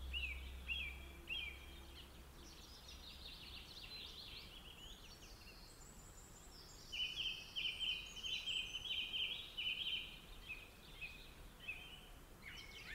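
Birds chirping and trilling, many short overlapping calls, busier and louder from about seven seconds in. A faint low hum fades out in the first couple of seconds.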